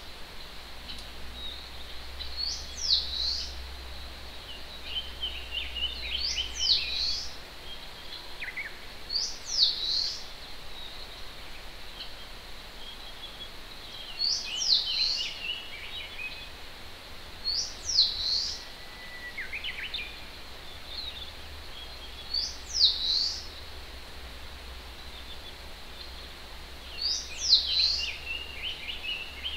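Wild songbirds singing over the steady rush of a distant mountain stream: one bird repeats a short, high phrase of quick downward-sweeping notes every few seconds, with softer, lower twittering from other birds between its phrases.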